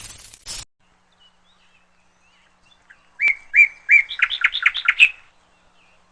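A small songbird singing one short phrase about three seconds in: three clear notes, then a fast trill of about eight notes, over in about two seconds. A short burst of hiss cuts off about half a second in.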